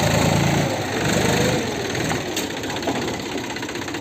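Mahindra tractor's diesel engine running hard, its sound swelling and easing about once a second.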